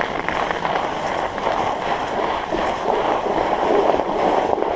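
Fat bike's wide tires rolling over snow: a steady rushing crunch dotted with small crackles, with wind on the microphone.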